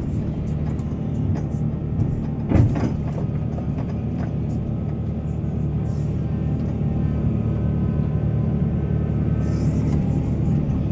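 Heavy diesel excavator engine running steadily, with a single sharp clank about two and a half seconds in.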